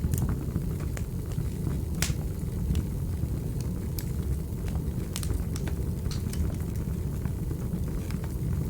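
Fireplace fire crackling: scattered sharp pops and clicks over a steady low rumble, with one louder pop about two seconds in.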